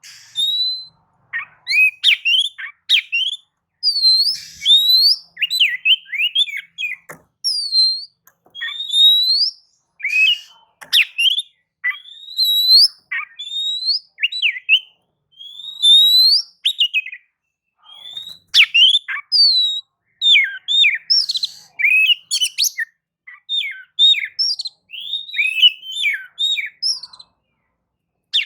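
Oriental magpie-robin (kacer) in full song: a fast run of short, varied whistled phrases, many sweeping up or down in pitch, with brief pauses between them.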